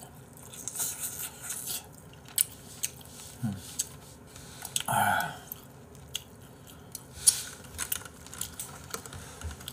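A person chewing a mouthful of chicken ramen noodles close to the microphone, with scattered small mouth and chopstick clicks and a short voiced sound about five seconds in.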